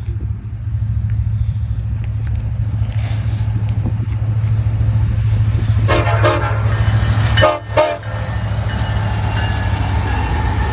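BNSF SD70ACE diesel-electric locomotive, with its 16-cylinder EMD 710 two-stroke engine, working a grain train with a deep, steady rumble. Its horn sounds two short blasts just past the middle, the first slightly longer.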